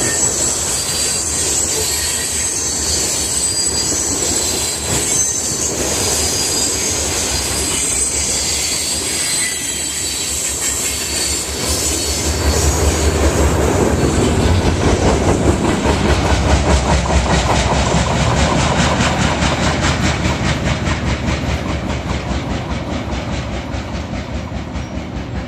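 Freight train cars rolling past, steel wheels clacking over the rail joints. A high wheel squeal is heard through the first half. From about twelve seconds in, a heavier rumble sets in with a steady, even clacking rhythm.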